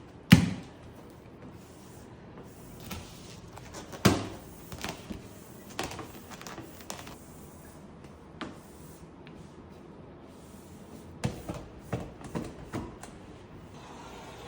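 A series of knocks and clicks: a sharp knock just after the start, another about four seconds in, then scattered smaller clicks and a quick cluster of them near the end.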